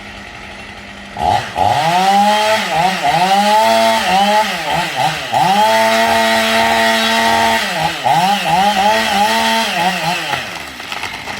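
Two-stroke chainsaw running at high revs, its pitch dipping and climbing again many times.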